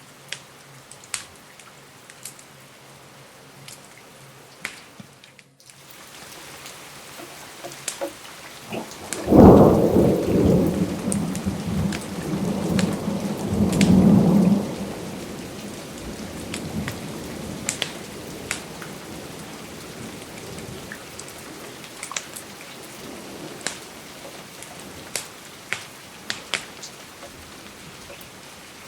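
Steady rain with sharp crackling pops from a fireplace. The sound briefly drops out about five seconds in. A few seconds later a thunderclap breaks sharply and rumbles for about five seconds before fading back into the rain.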